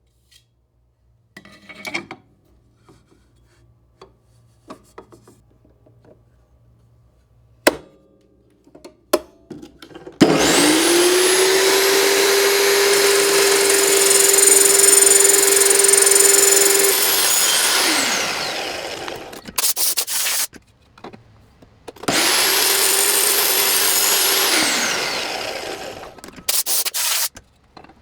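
A few light clicks of handling, then an electric power saw spins up with a rising whine, cuts for several seconds and winds down; a second, shorter run and cut follows near the end.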